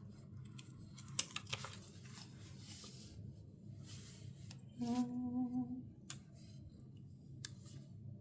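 Paper and stickers being handled at a desk: soft rustles and a few sharp snips or clicks. A woman hums one short note about five seconds in.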